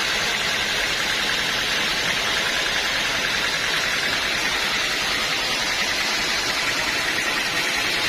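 Sawmill band saw running through a teak log: a steady, loud, hissing machine noise that holds without a break.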